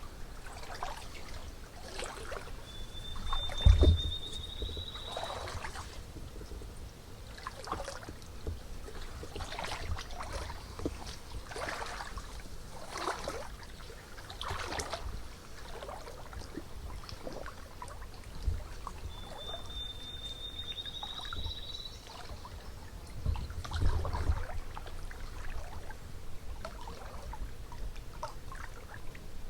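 Footsteps crunching through dry leaf litter, about one step a second. A songbird gives a thin, rising trill twice, and two low thumps sound, one about 4 seconds in and one near 24 seconds.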